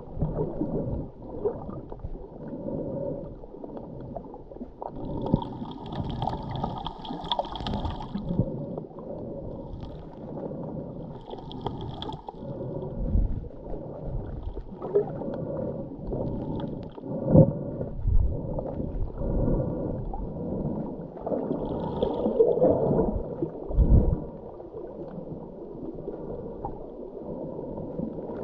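Underwater sound picked up through a GoPro housing during a scuba dive: a muffled, gurgling rumble of the diver's exhaled regulator bubbles, swelling in irregular surges, with a few short hisses of breathing through the regulator.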